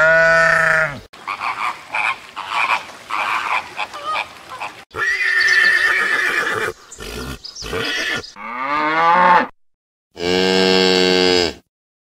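A sheep bleats once at the start, then horses call in a string of separate whinnies and neighs, the last one long and even near the end.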